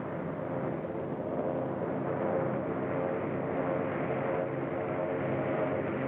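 Engine drone of an approaching vehicle, a steady pitched hum that grows louder and then holds.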